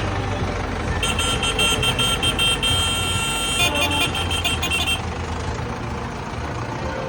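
A tractor engine runs with a low rumble. From about a second in to about five seconds, a high-pitched horn beeps in quick on-off pulses, holding steady for a moment midway.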